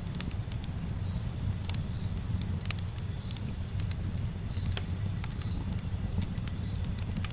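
Campfire burning: a steady low rumble with irregular sharp crackles and pops of varying loudness. A faint short high chirp repeats about once a second.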